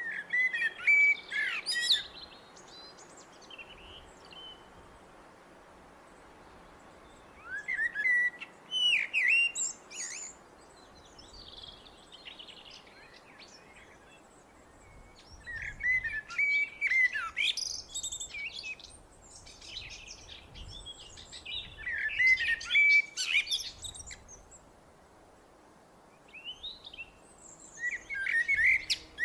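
A blackbird singing: about five separate song phrases, each a low, fluty warble that ends in a high, squeaky twitter, with pauses of several seconds between them.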